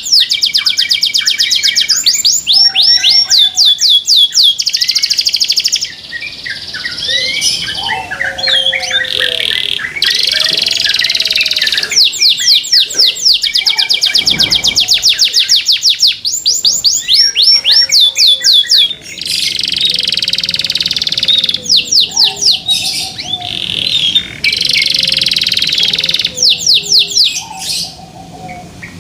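Domestic canary singing loudly in long rolling trills of fast repeated down-sweeping notes, broken by short pauses. A fainter, lower whistled note glides underneath.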